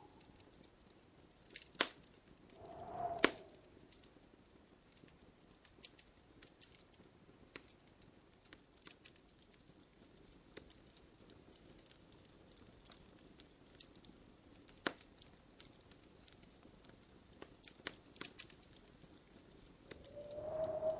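Wood fire crackling in a fireplace: scattered sharp pops and snaps over a faint hiss, the loudest two early on a second apart. A short tone swells and fades about three seconds in and again near the end.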